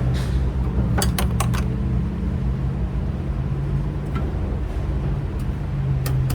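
A steady low, engine-like hum, with a quick run of four sharp metallic clicks about a second in and another click near the end from hand tools and fasteners being handled.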